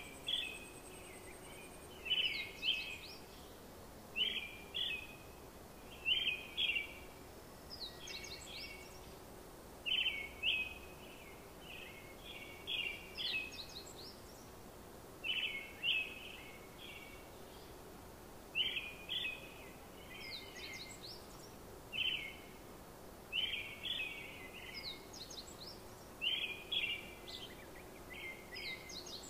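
A bird calling over and over: short chirps in quick clusters, repeated every second or two, over a faint steady low hum.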